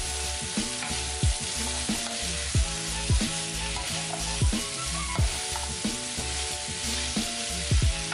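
Green beans sizzling and being stirred with a wooden spatula in a hot nonstick wok, a steady frying hiss. Background music with a thudding kick drum and steady bass plays over it, its kicks the loudest sounds.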